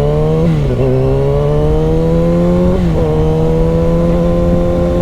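Motorcycle engine accelerating through the gears: the revs rise, drop with an upshift about half a second in, rise again, drop with a second upshift near three seconds, then hold steady at cruising speed, with wind rumble underneath.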